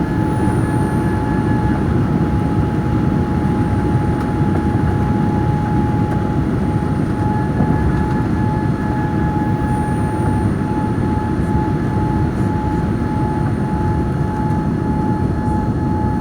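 Steady cabin noise of a jet airliner in its climb after takeoff: a loud low rumble of engines and airflow with a steady whine over it.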